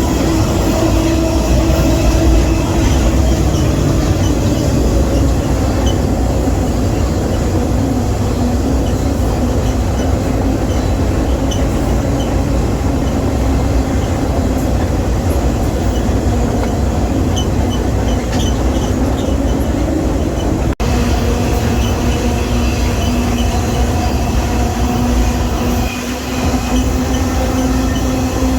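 Freight train rolling along, heard from aboard a car: a loud, steady rumble of wheels on rail with steady whining tones over it. The sound drops out for a split second about two-thirds of the way through.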